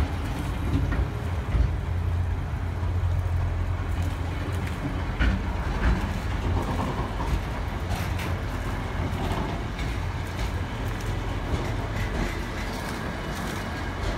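FWAA container flat wagons of a freight train rolling past at close range: a steady low rumble from the wheels, with scattered sharp clicks and knocks.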